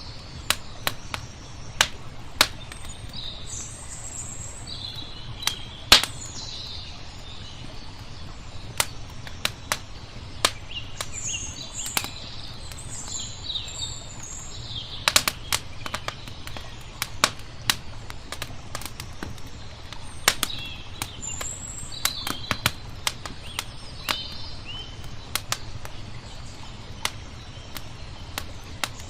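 Wood fire crackling with frequent sharp, irregular pops, while small birds chirp and twitter in short bursts, over a steady low background wash.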